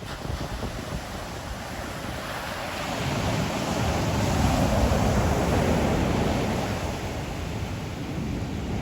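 Ocean surf breaking on the shore: one wave builds about three seconds in, peaks, and slowly washes out, over a steady low rumble of the sea. Wind buffets the microphone.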